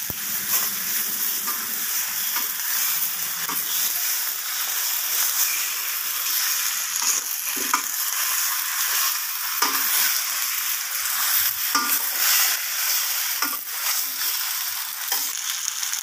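Chicken pieces, potatoes and tomatoes sizzling in hot oil in a stainless steel pan while they are stirred with a metal spatula. A few sharp knocks of the spatula against the pan come in the second half.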